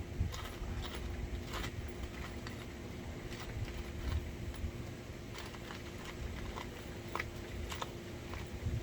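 Scattered light clicks and taps of hands working with parts and wiring, over a steady low hum.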